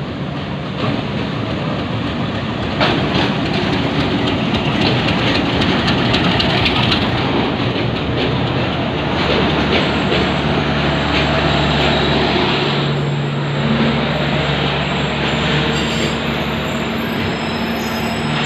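Diesel-hauled passenger train arriving at a station, passing close below: the locomotive goes by, then the coaches roll past with a steady rumble and rail clatter. Sharp clicks sound in the first few seconds, and a low steady hum joins about halfway through.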